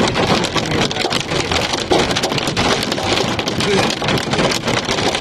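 Small hail and rain pelting a car's roof and windshield: a dense patter of many sharp ticks over a steady hiss.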